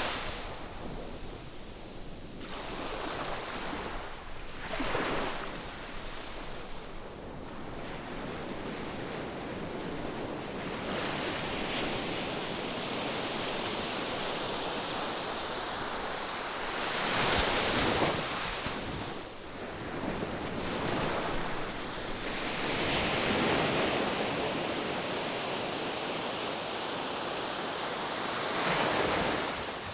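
Ocean surf breaking on the shore: waves wash in and draw back in a continuous hiss, with four louder surges that build and fade.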